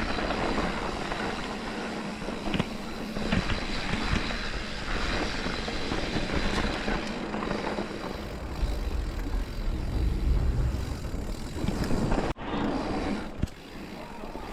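Mountain bike riding fast down a dirt trail: wind rushing over the microphone and tyres rolling on dirt, with a few sharp knocks and rattles from the bike. The sound drops out briefly about twelve seconds in.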